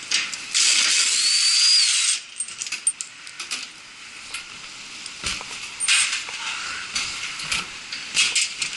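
Metal hand tools clinking and clicking against metal parts, with a loud hiss lasting about a second and a half near the start.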